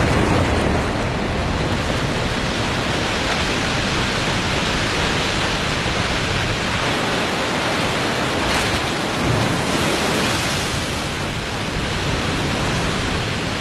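Waterfall in spring breakup: a steady, heavy rush of water pouring over the falls, carrying mud and broken ice.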